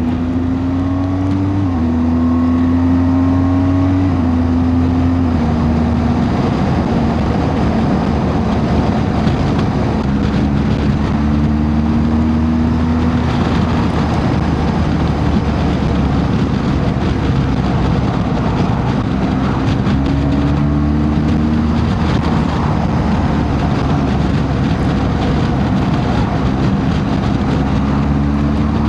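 Motorcycle engine under way with steady wind and road rush on a helmet microphone. The engine note climbs and drops back several times as the rider accelerates and shifts gears.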